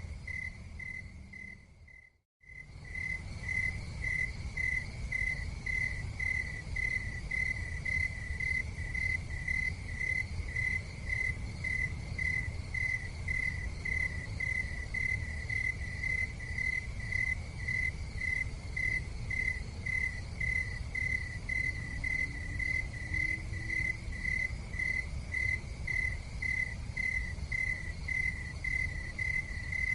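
Insect chirping in a steady, even rhythm of high pulses over a low rumble. About two seconds in the sound fades out to silence and cuts straight back in, the seam of a looped recording.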